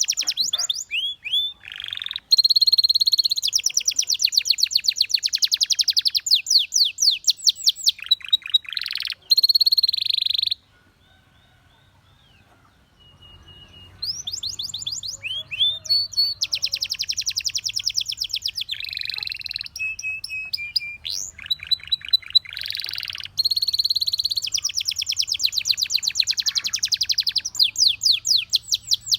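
Domestic canary singing in phrases of fast, rattling trills and rolls with short whistled glides. The song breaks off for about three seconds in the middle, then starts again.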